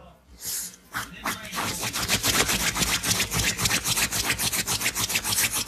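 Shiba Inu digging with its front paws, claws scratching at a surface. A few scrapes at first, then from about a second in a fast, loud run of scratching strokes, several a second.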